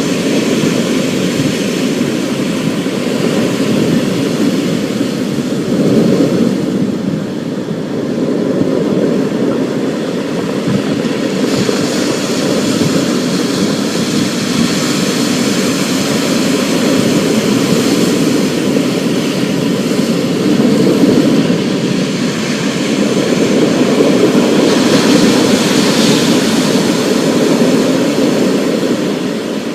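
Thunderstorm sounds: a steady dense rush of rain over a continuous low rumble, swelling a little about six seconds in and again near the end.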